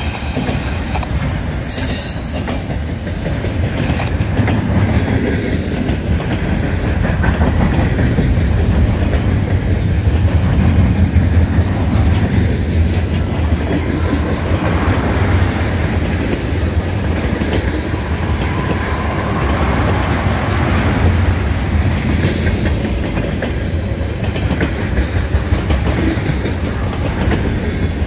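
CN freight train cars rolling past: a steady, loud rumble of steel wheels on rail with a running clickety-clack.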